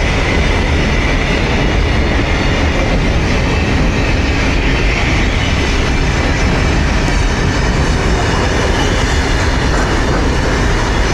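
Mauritanian iron ore train running: a loud, steady, deep rumble and clatter that goes on without a break.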